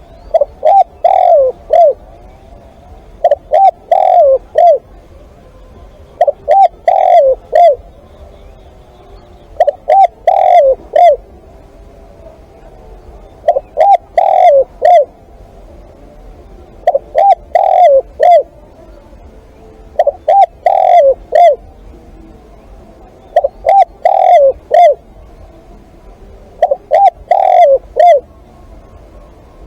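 Spotted dove cooing: a loud phrase of three or four notes, repeated about every three seconds, nine times.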